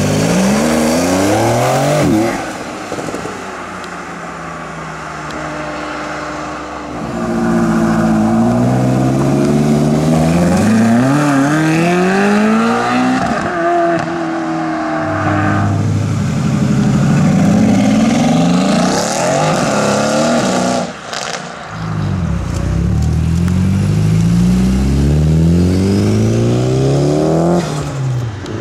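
Sports car engines accelerating hard, one car after another, each climbing in pitch through the revs and dropping back at the gear changes.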